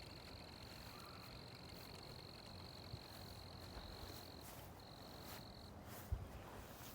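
Faint, steady, high-pitched insect trilling that breaks off about four seconds in and returns briefly about a second later. A soft low thump near the end.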